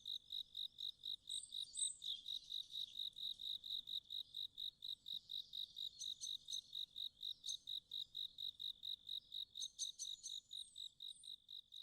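Crickets chirping in an evening ambience, a steady high pulse of about four chirps a second, with a few faint higher chirps now and then.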